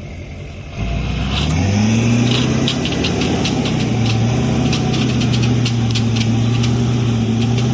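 Pickup or tow vehicle engine revving up about a second in and holding steady high revs under load while pulling a stuck truck out of deep sand, with a faint ticking over it.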